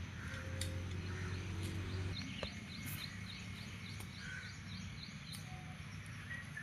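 Birds chirping, including a run of quick high chirps repeated about three times a second midway, over a low steady rumble that is heavier in the first two seconds.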